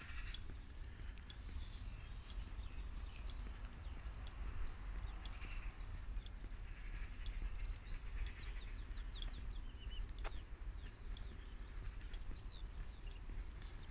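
Songbirds chirping and twittering over a low rumble of wind on the microphone, with faint sharp ticks about once a second and one louder click about ten seconds in.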